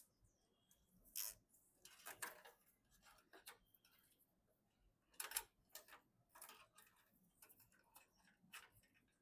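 Soft, scattered clicks and rustles of PC components and packaging being handled, irregularly spaced, the loudest about five seconds in.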